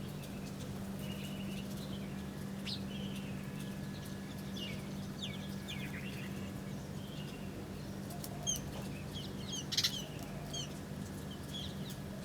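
Small birds chirping and twittering in short, quick calls, many overlapping, over a steady low hum. A couple of brief sharp sounds stand out about eight and a half and ten seconds in, the second the loudest.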